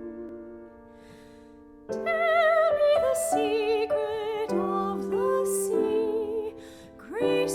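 Soprano and piano art song. A piano chord fades for about two seconds, then the soprano comes back in, singing with a wide vibrato over the piano accompaniment, easing off briefly near the end before the next phrase.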